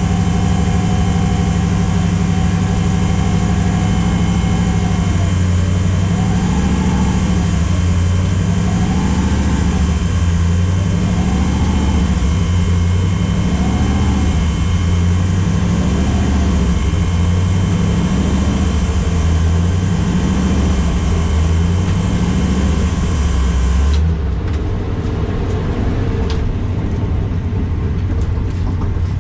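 Twin-turbo Mustang's engine idling steadily, with a whine that wavers up and down over a stretch of several seconds. About three-quarters of the way through the sound becomes suddenly duller.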